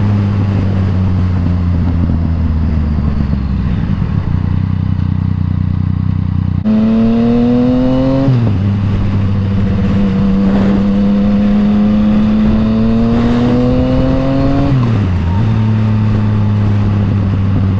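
Yamaha MT-09's inline-three engine through an Akrapovič exhaust, heard from the bike while riding: a steady drone, then the revs climbing, with a quick drop for an upshift about eight seconds in and another about fifteen seconds in.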